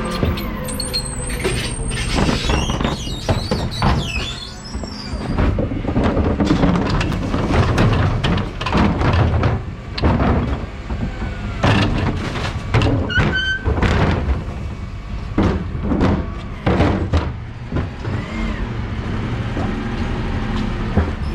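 A Dennis Elite 6 refuse truck's engine runs steadily while green wheelie bins are lifted and emptied into the body, with repeated bangs and clatter from the bins and falling paper and cardboard.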